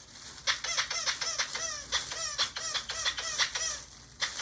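Rubber squeak toy squeezed rapidly over and over, a quick run of short high squeaks, about five a second, starting about half a second in.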